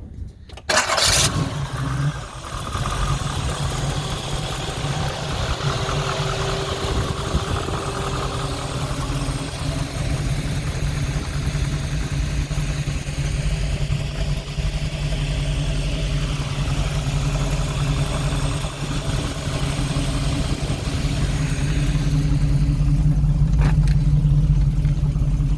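A 400 Chevrolet small-block V8 with headers and a stainless steel dual exhaust starts about a second in, catching at once. It then idles steadily, a little louder near the end.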